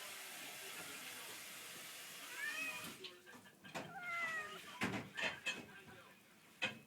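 A domestic cat meows twice, about two and a half and four seconds in; the second meow is longer and falls in pitch. The cat wants to get out through a gap. Running water hisses for the first three seconds and then stops, and a few sharp knocks follow.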